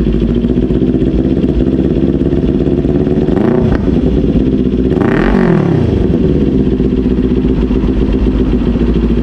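Kawasaki Ninja 400's parallel-twin engine idling through a newly fitted SC Project aftermarket exhaust, blipped twice: a short rev about three and a half seconds in and a bigger one about five seconds in, each dropping straight back to idle.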